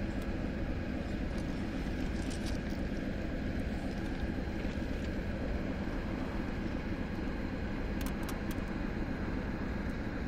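Steady low rumble of a diesel-hauled freight train moving away down the line, with a few faint clicks about eight seconds in.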